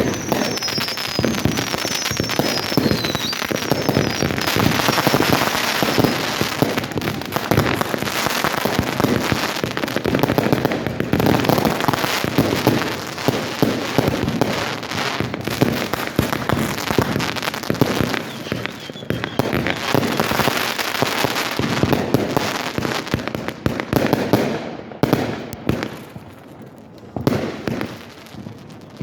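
Fireworks going off in a dense barrage of overlapping bangs and crackling, with a few high whistles falling in pitch in the first few seconds. Near the end the barrage thins to scattered single bangs.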